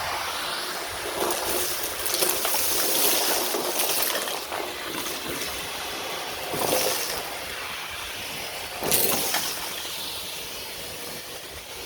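Gritty, trickling rush of sand, swelling and fading, with louder surges about two, seven and nine seconds in.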